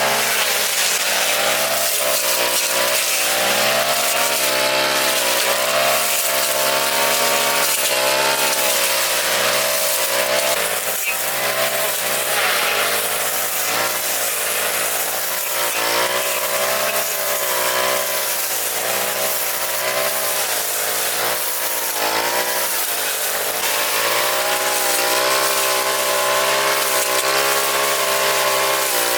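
Lawn mower engine running continuously while cutting grass, its pitch rising and falling every second or so as the load on it changes.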